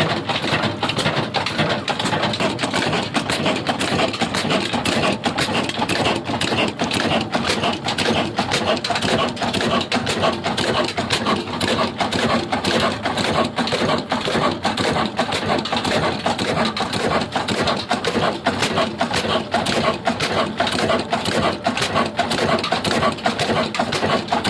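Old heavy diesel engine running steadily with a fast, even knock.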